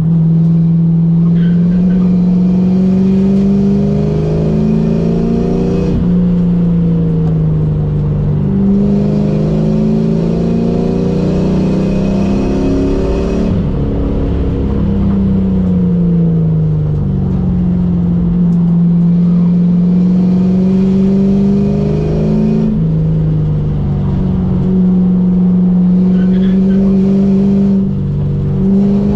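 Ford SN95 Mustang's engine heard from inside the cabin at track pace: its pitch climbs under acceleration, drops sharply at upshifts, and falls away under braking before climbing again several times.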